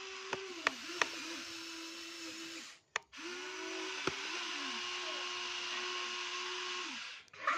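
Small electric motor and gearbox of a radio-controlled toy construction vehicle, whining steadily. The pitch sags and recovers several times as the motor takes load, with a few sharp clicks near the start. It cuts out briefly about three seconds in, then runs again.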